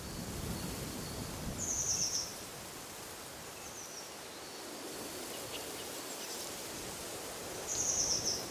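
Wind rustling through trees as a steady hiss, with a small bird giving short high trilled calls, two of them louder, a few seconds apart.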